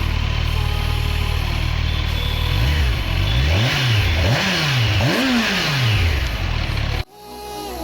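Kawasaki Ninja 1100SX inline-four breathing through an aftermarket barrel slip-on exhaust: it idles steadily, then the throttle is blipped several times, the revs rising and falling quickly. The engine cuts off abruptly near the end and electronic music takes over.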